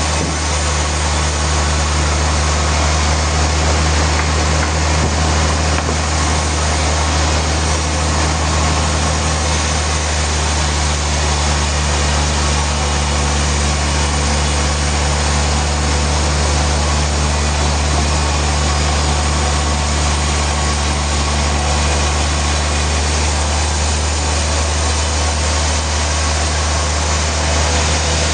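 Sawmill machinery running steadily, a constant low hum under a dense mechanical noise.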